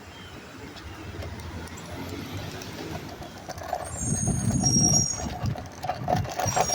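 Garbage truck's diesel engine running and growing louder, peaking about two-thirds of the way through, with thin high-pitched squeals around the middle and near the end.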